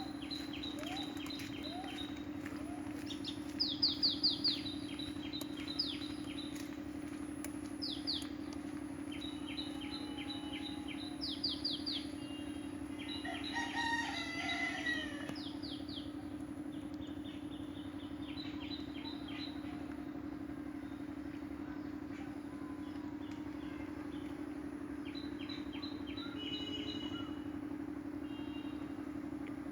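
Birds calling outdoors: bursts of quick, high repeated chirps, loudest about four seconds in, and one longer call with a falling pitch about halfway through, over a steady low hum.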